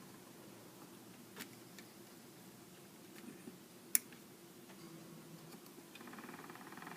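A few faint clicks and taps, the sharpest about four seconds in, over a low steady hum, with a faint buzzing starting near the end.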